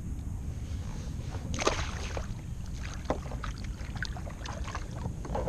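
Steady low wind rumble on the microphone, with a scattering of small clicks and knocks from fishing gear being handled aboard a kayak, starting about a second and a half in.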